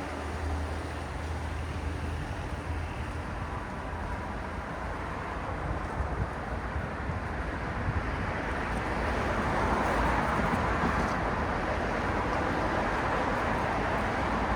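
City road traffic: a steady wash of tyre and engine noise with a low hum. It swells about nine seconds in as vehicles pass closer.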